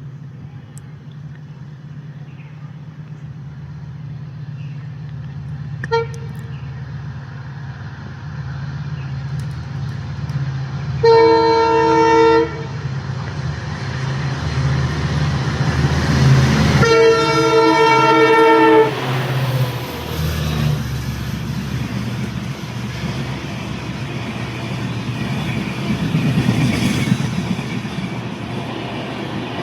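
Indian Railways locomotive horn sounding twice over the steady low drone of a locomotive: a short blast a little over a third of the way in, then a longer one just past the middle. After that the rumble of the passing train grows louder.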